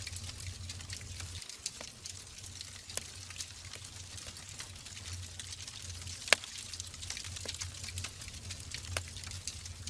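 Wood fire burning in a fireplace: a steady hiss with frequent sharp crackles and pops at irregular intervals, one loud pop a little past the middle, over a low rumble.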